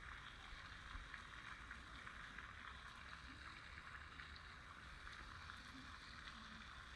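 Faint, steady water sound, a soft trickling hiss with fine ticks and no change throughout.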